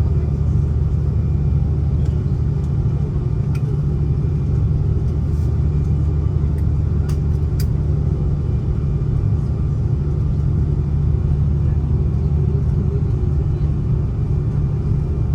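Steady low rumble and hum inside the cabin of an Airbus A330-300 airliner with its engines running, holding at an even level with a few faint clicks.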